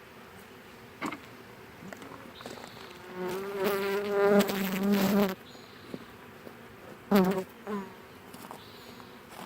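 Honeybees buzzing. About three seconds in, one flies close past the microphone with a loud, wavering buzz that lasts about two seconds, and two brief close buzzes follow about seven seconds in.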